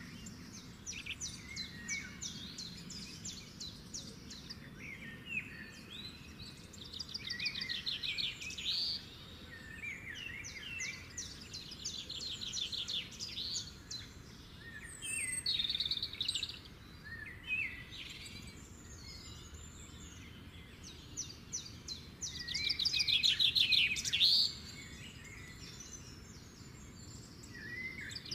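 Songbirds singing: bursts of rapid trills and chirps, loudest a few seconds before the end.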